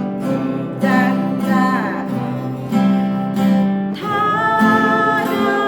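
Acoustic guitar strummed in a three-beat waltz pattern, a bass note followed by two strums. A voice calls the beat and then sings the melody over it from about four seconds in.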